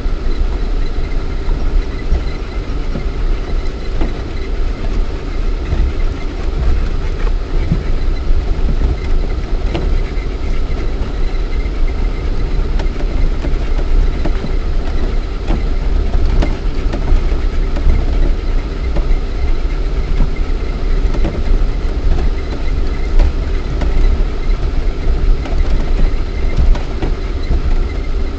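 Lada Niva 4x4 driving over rough off-road ground, heard from inside the cabin: a steady deep engine and drivetrain rumble with a constant whine, and frequent knocks and rattles as the car goes over bumps.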